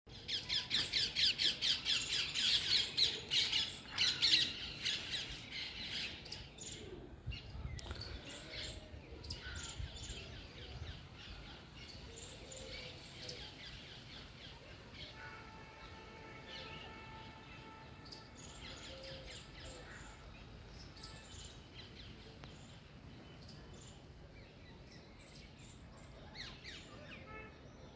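Birds calling: a loud burst of rapid, repeated squawking calls for the first few seconds, then scattered chirps and calls at a lower level. In the middle, a steady held tone lasts about five seconds.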